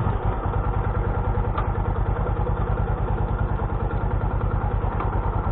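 Motorcycle engine running steadily with an even, low pulsing beat.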